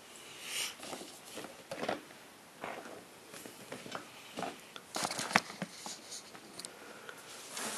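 Packaging being handled for an unboxing: intermittent rustling with small clicks, and one sharp click about five seconds in.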